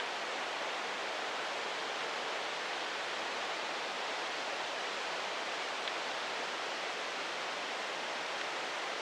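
Steady, even rush of distant flowing water from a mountain creek or waterfall.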